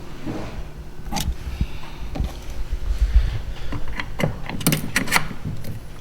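Handling noise from assembling a kayak cart's landing gear: scattered clicks and knocks of parts being fitted and tightened, several in quick succession near the end, with a low bump about halfway through.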